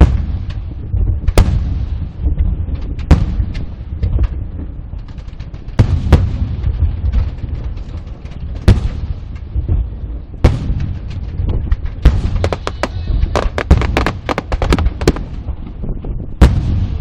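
Fireworks going off in quick, irregular succession: sharp bangs over a steady low rumble, with a dense run of rapid cracks about twelve to fifteen seconds in.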